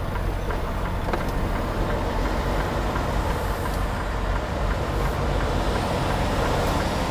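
Semi truck's diesel engine running steadily at low speed while maneuvering, with a few faint clicks.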